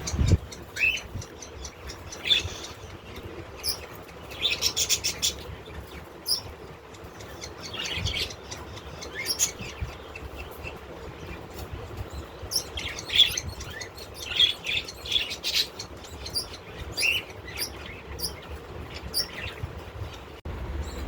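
Pet birds in a loft chirping and calling in short, repeated bursts of high notes, some in quick rapid runs, over a low steady background hum.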